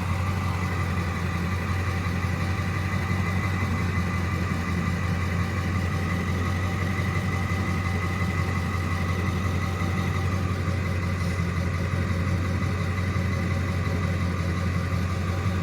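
A vehicle engine idling steadily: a constant low hum, with a faint thin high tone over it that fades out about halfway through.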